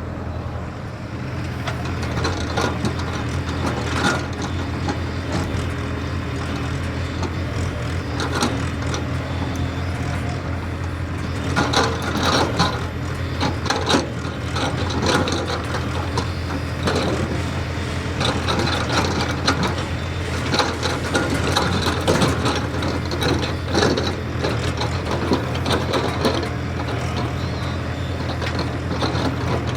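JCB excavator's diesel engine running steadily, with repeated clanks, knocks and scraping over it, busiest in the middle and later part.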